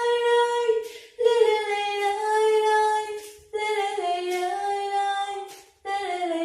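A woman singing unaccompanied in long held notes with no instruments: three drawn-out phrases with a short breath between each.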